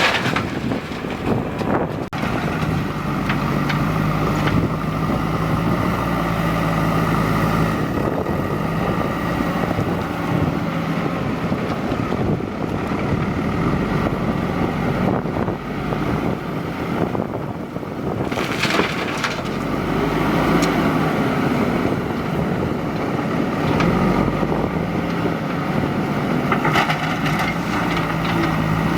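JCB 3DX backhoe loader's diesel engine running under working load, its note rising and falling, with a few knocks and clatters from the machine at work.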